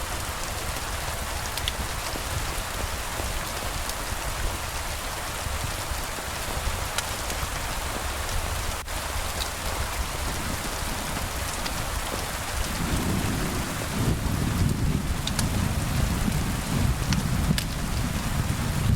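Steady rain falling, with a few light ticks of drops. About two-thirds of the way through, a low rumble of distant thunder comes in and keeps going.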